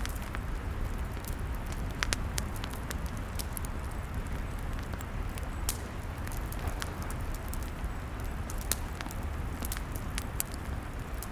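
Log fire crackling: irregular sharp pops and snaps scattered over a steady low rumble.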